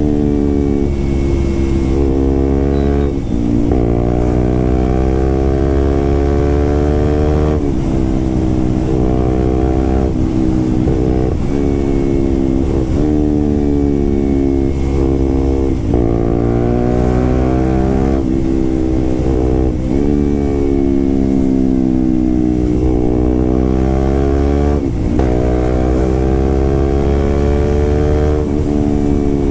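Motorcycle fitted with an SC Project aftermarket exhaust, running loud while riding. Its engine note rises and falls continuously, with an abrupt break every few seconds.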